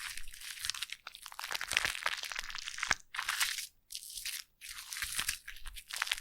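Foam crackling and popping in dense fine crackles, coming in several bursts with short pauses between.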